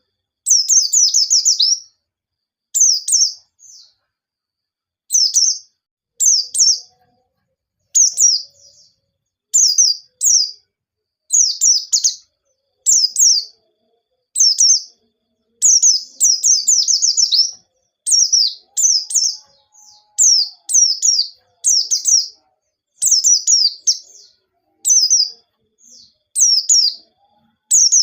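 White-eye (pleci) singing: short, high, rapid phrases of falling chirps repeated every second or two, with a few longer run-on bursts, such as about a second in and around 16 seconds in.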